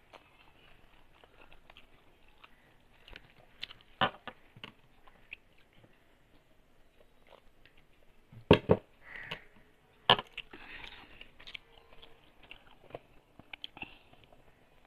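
Person chewing and eating rice by hand, with soft mouth sounds and small rustles throughout. A few sharp clicks or knocks stand out: one about four seconds in, a loud double one about halfway through, and another loud one shortly after.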